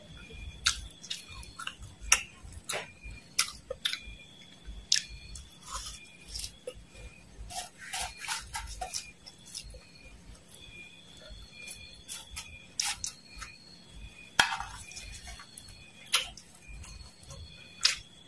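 Close-miked crunching and chewing of fried dried worms and mole crickets, with sharp crunches every second or so, and a metal spoon clinking and scraping on a ceramic plate.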